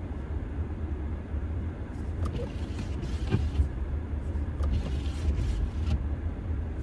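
Low, steady rumble of a car's running engine heard from inside the cabin, with a hissing swish twice, once around two seconds in and once around five seconds in.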